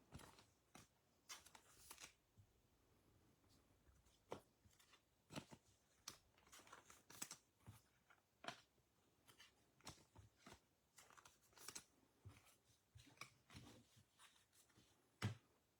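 Faint handling of trading cards: scattered light clicks and rustles as cards are picked up, shuffled and set down.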